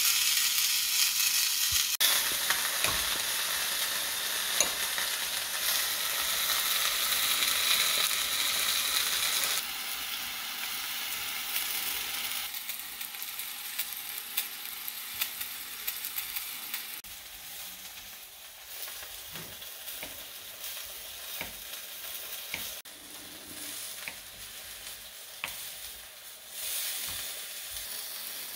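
Portobello mushroom caps with chopped garlic frying in a cast-iron skillet: a steady sizzling hiss. The sizzle drops suddenly at about ten seconds and again a couple of seconds later, then goes on more quietly with small scattered ticks and taps.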